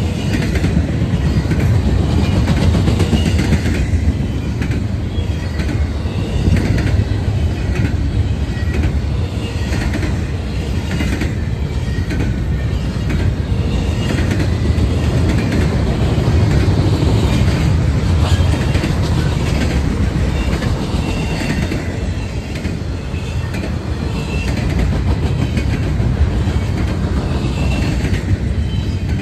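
Freight train cars rolling past close by, a steady heavy rumble with repeated clicks of wheels over the rails and faint, intermittent high wheel squeal.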